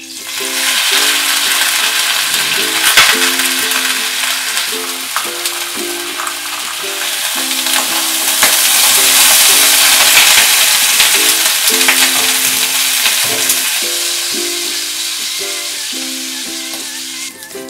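A slice of green cabbage sizzling in hot olive oil in a nonstick pan. The sizzle starts suddenly as the cabbage goes in, swells and then eases off, with a couple of knocks from the utensils pressing it down. Ukulele music plays underneath.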